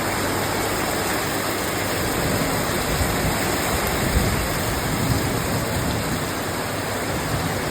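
Heavy rain falling steadily, an even hiss, with a few low bumps near the middle.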